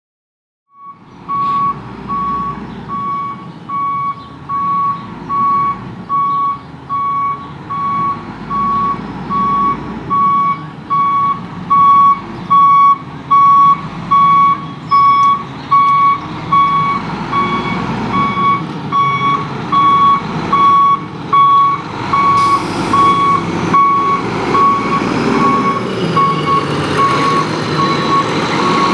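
Garbage truck reversing, a Volvo WX with a Labrie Expert 2000 body: its backup alarm beeps about once a second over the running diesel engine. A hiss joins about three-quarters of the way in.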